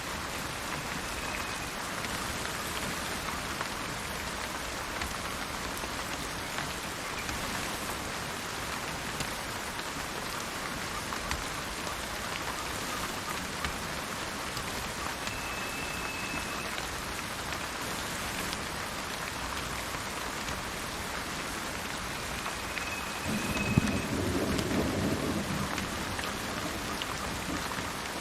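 Steady rain falling, with a roll of thunder rumbling for a few seconds near the end. Three brief, high whistled bird notes sound over the rain, one near the start, one midway and one just before the thunder.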